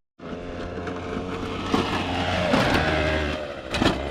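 Moped engine running and revving as the moped rides over the dirt track, its pitch rising through the middle, with a sharp knock about a second before the end.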